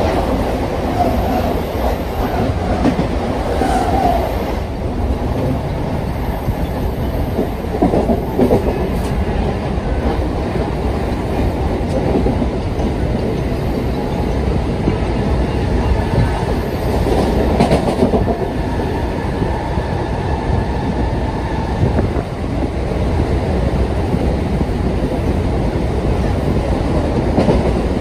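Mumbai suburban local electric train running along the track, heard from its open doorway: a loud, steady rumble of the wheels, with the clatter of rail joints now and then.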